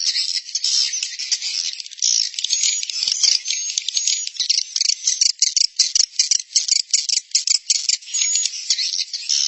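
Edible-nest swiftlets twittering in a dense, rapid chatter of clicks and chirps, with a few short high whistles. It is a swiftlet-house roosting-call lure recording, which sounds thin because it has no low end.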